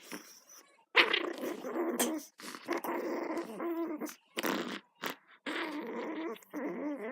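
Dog growling in play, in several bouts of a second or two each with short breaks between.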